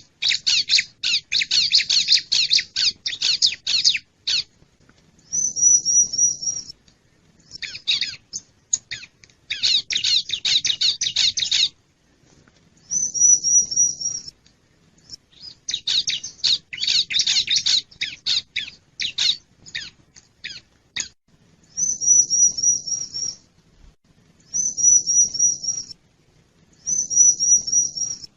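Wild bar-winged prinia (ciblek) song used as a lure call. Bouts of fast, scratchy chattering alternate with short runs of quick, high repeated notes.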